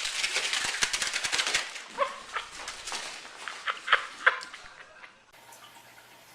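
Several short, sharp animal calls in quick succession over a clattering, rustling noise full of clicks.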